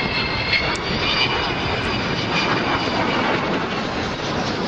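Avro Vulcan jet bomber passing slowly and quietly, its four Rolls-Royce Bristol Olympus engines giving a steady high whine over a broad, even rush.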